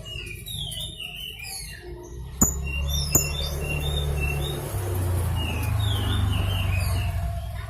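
Young blue-crowned hanging parrot (serindit) calling in quick runs of short, high chirps and squeaky glides. Two sharp clicks come about two and a half and three seconds in, under a low rumble that lasts through most of the rest.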